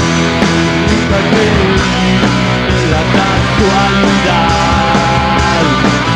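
Live punk rock band playing: electric guitars, bass and drums, loud and steady.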